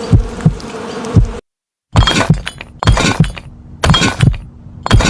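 Heartbeat-like low thumps, about two a second, over a buzzing hum, cut off about a second and a half in. After a brief silence comes a glass-shattering sound effect, repeated about once a second with a high ringing after each crash.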